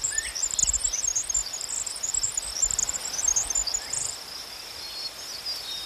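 Steady high-pitched cricket chirring, with a rapid, very high chattering of chips over the first four seconds.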